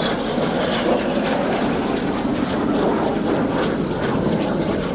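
Steady rushing jet noise of BAE Hawk T1 jets flying past just after a head-on crossing pass.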